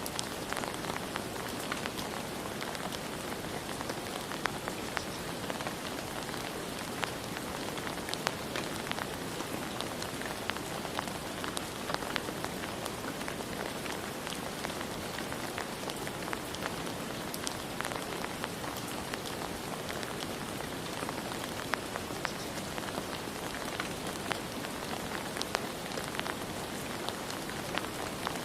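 Steady rain falling, with a dense hiss and many individual drops ticking sharply on a surface.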